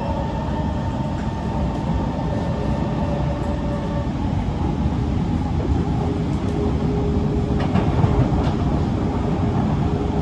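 Kawasaki C151 MRT train running at speed, heard from inside the car: a continuous rumble of wheels on rail. A steady tone over the rumble stops about four seconds in, and a lower steady tone comes in after about six seconds.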